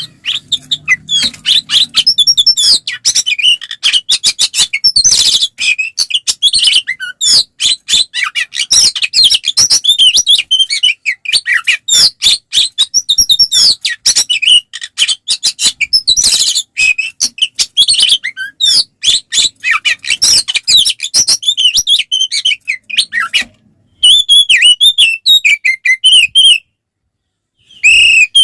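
Oriental magpie-robin (kacer) singing its loud, fast, varied fighting song of chirps, whistles and trills, which breaks off for about a second near the end and then resumes.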